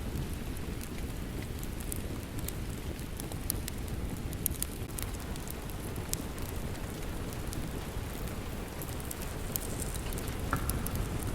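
Steady rain with a dense, low rumble, mixed with a wood fire in a fireplace crackling in sharp, scattered pops.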